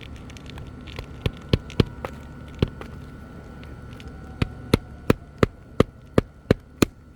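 Hammer blows on a shingle roof: a few scattered strikes, then a steady run of about nine, roughly three a second, over a low steady rumble.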